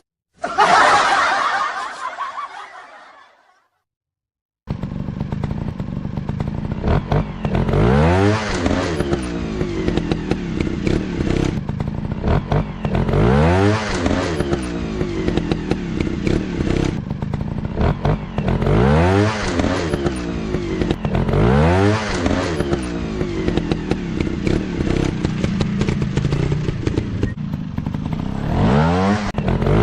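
Dirt bike engines running, revving up and dropping back again and again, every few seconds. They come in about five seconds in, after a short sound that fades out and a moment of silence.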